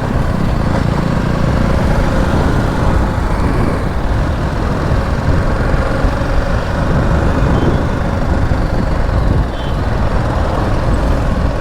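Riding noise from a BMW G 310 GS motorcycle on a highway: a steady rush of wind on the camera microphone over the bike's engine and the surrounding road traffic.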